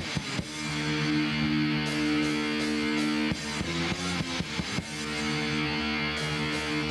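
Punk rock band playing live: distorted electric guitars and bass hold long chords, broken by a choppy strummed passage in the middle, over drums, in the instrumental run-up before the vocals come in.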